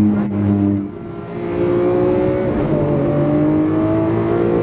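Car engine heard from inside the cabin: a steady note, a brief lull about a second in, then the note climbs steadily in pitch as the car accelerates, easing back slightly near the end.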